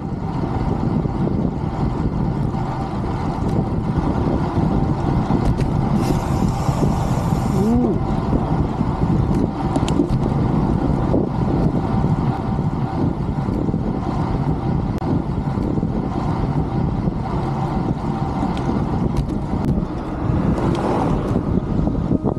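Steady low rushing of wind over the microphone while cycling, with a brief high hiss about six seconds in.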